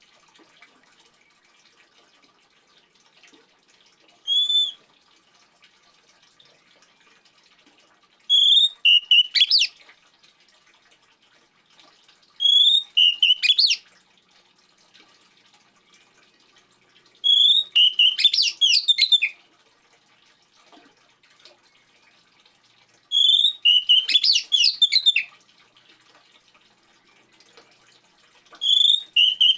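Oriental magpie-robin (kacer) singing: after one short whistle, it gives five loud phrases about five seconds apart, each opening with a clear whistled note and running into a quick jumble of high notes. Faint trickling water sounds beneath.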